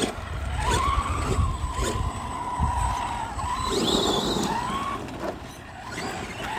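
Brushless electric motor of an Arrma 4x4 3S RC truck whining at a steady pitch under throttle, then rising in pitch as it speeds up, with a short spell of tyres scrabbling and skidding on the ground in between.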